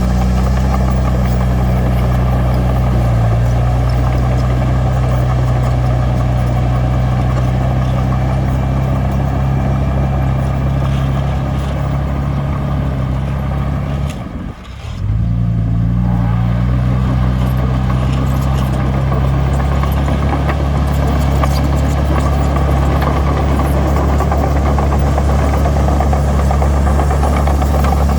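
Heavy diesel engine of construction machinery running steadily with a low drone. It drops out briefly about halfway through, then carries on.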